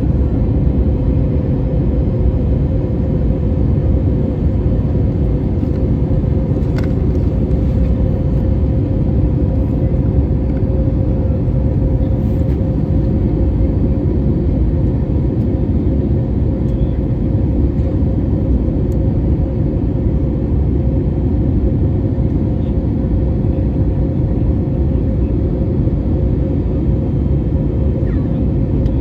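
Boeing airliner on approach: a steady, loud low rumble of engines and rushing air, with a constant hum running through it.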